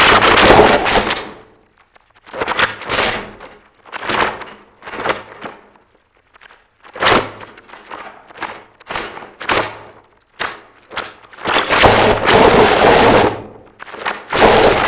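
Harsh noise music: loud blasts of distorted noise that start and cut off abruptly in an irregular stutter. A long blast comes about halfway through, and the loudest, longest one comes near the end.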